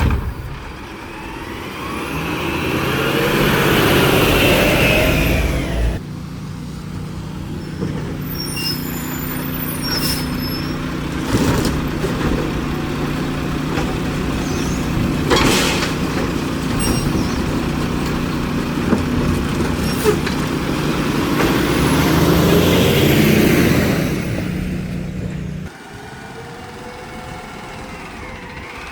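Garbage truck engine running, revving up twice with a rising and falling pitch, with a steady engine tone and a few sharp knocks between.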